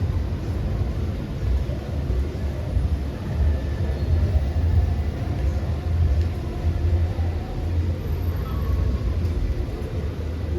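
Outdoor city street ambience: a steady low rumble of traffic, with no single event standing out.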